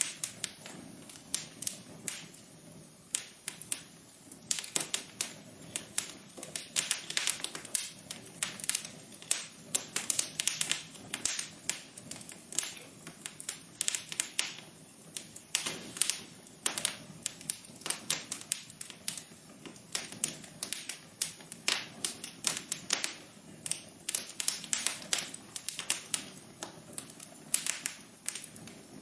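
Wood fire crackling, with many irregular sharp pops and snaps over a low steady hiss of burning.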